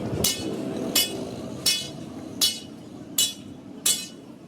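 Hammer striking metal: six evenly paced blows about 0.7 s apart, each with a bright metallic ring, over steady workshop background noise.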